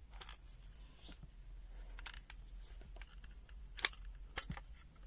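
Light clicks and brief scrapes of a handheld multimeter's plastic case being handled and taken apart, with one sharper click a little before four seconds in.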